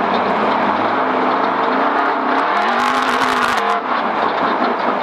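A car driven hard over a rough, rocky track: the engine runs with its pitch rising and falling, under a constant rumble of tyres and bodywork, with a burst of rapid clattering in the middle as it crosses rocks.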